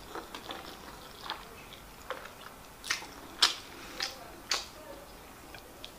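Close-up chewing of a mouthful of rice and stew, with wet mouth clicks and smacks. Four louder smacks come in quick succession between about three and four and a half seconds in.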